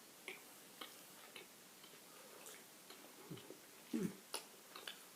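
Faint, irregular crunching of Pringles crisps being chewed, heard as scattered short crackles, with a brief low sound about four seconds in.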